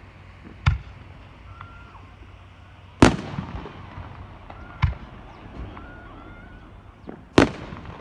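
Aerial firework shells bursting overhead: four sharp booms, each with a short rumbling echo. The loudest come about three seconds in and near the end.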